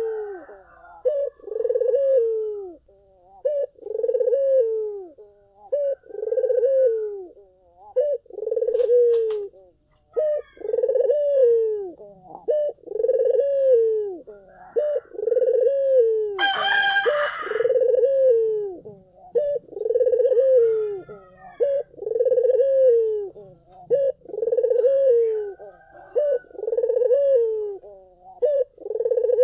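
Puter doves (ringneck or Barbary doves) cooing over and over, each coo a short falling note, about one a second, with faint higher chirps from other birds. A single louder, brighter call cuts in about halfway through.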